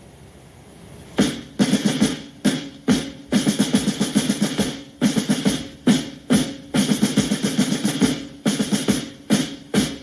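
Drum music: rapid drum rolls played in short, stop-and-start bursts, beginning about a second in.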